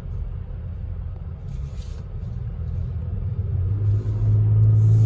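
2021 Toyota Tacoma pickup heard from inside the cab while driving: a steady low engine and road drone that grows louder about four seconds in.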